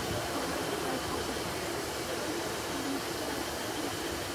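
Train noise: a steady, even rumble and hiss with faint tones humming underneath, no sudden events.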